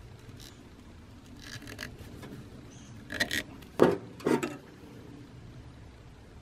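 Tools and metal parts being handled: faint rubbing and scraping, then a short run of sharp knocks and clatters about three to four and a half seconds in, the loudest just before the four-second mark.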